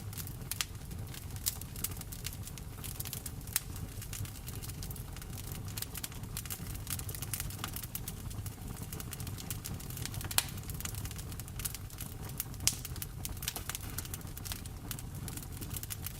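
Wood fire in a fireplace crackling with many irregular sharp pops over a steady low rumble, with rain falling behind it; two pops about ten and twelve and a half seconds in stand out as the loudest.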